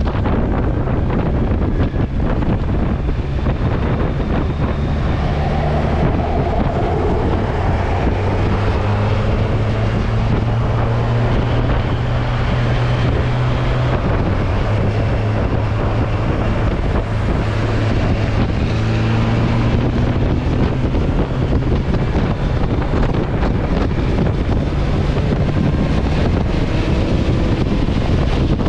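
Kawasaki Versys 1000's inline-four engine running at road speed, its note shifting pitch in steps several times as it pulls, under heavy wind noise on the microphone.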